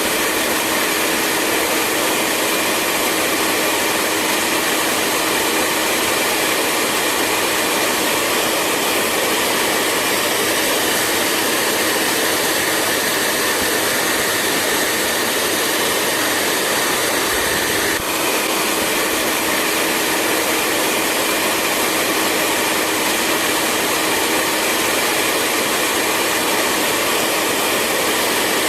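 Hair dryer running continuously: a steady rush of blown air over a constant motor hum, with one brief dip about midway.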